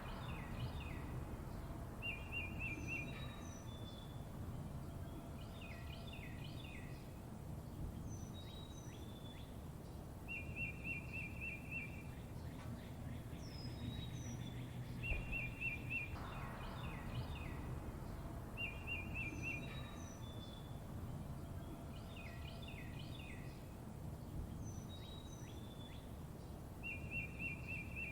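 Birds chirping: a short, fast trill repeated several times, with clusters of quick chirps and high whistled notes between, over a steady low rumble.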